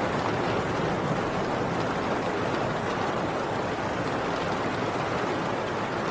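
Heavy rain falling steadily on a tin roof: a dense, even hiss with no break or thunderclap.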